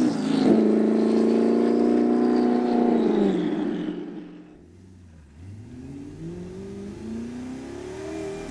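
Twin-turbo Audi R8 V8 engine pulling hard at high revs, then the throttle lifts about three seconds in and the engine note falls away to a quiet coast. Near the end it climbs in pitch again, more softly, as the car accelerates once more.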